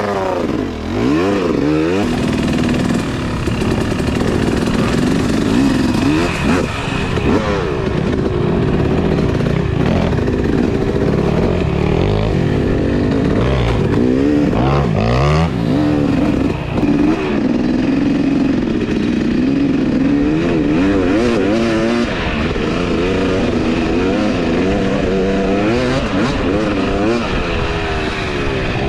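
Two-stroke 250 dirt bike engine revving up and down without a break while being ridden, the pitch rising and falling as it works through the throttle and gears, with a steady rush of noise underneath.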